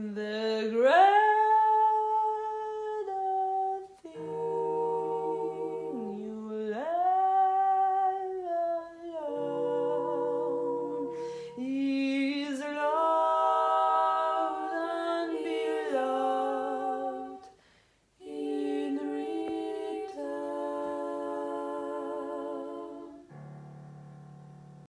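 Mezzo-soprano voice singing a slow melody of long held notes with vibrato, in phrases with short breaks between them. A low held note sounds beneath a few of the phrases, and the last one fades near the end.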